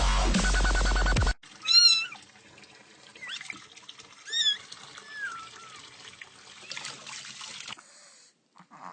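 Bass-heavy dubstep music cuts off suddenly about a second in. A cat then meows: two loud meows about two and a half seconds apart, and a few quieter ones between and after.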